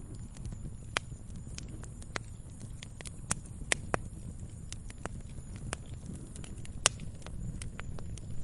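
Log fire burning in a fireplace: irregular sharp crackles and pops over a low steady rumble, with the loudest pop late on.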